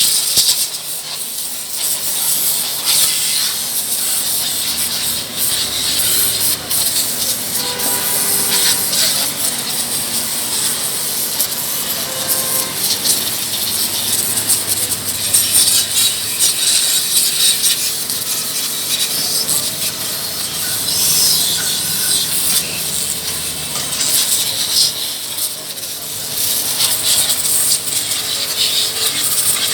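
Pressure-washer water jet spraying, a steady loud hiss that wavers as the spray moves over the bike.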